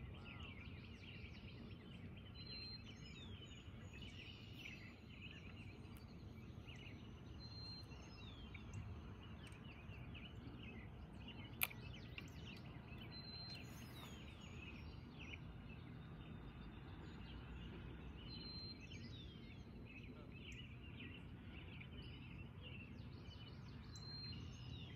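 Birds chirping and whistling over a low steady outdoor rumble, with one sharp click about halfway through.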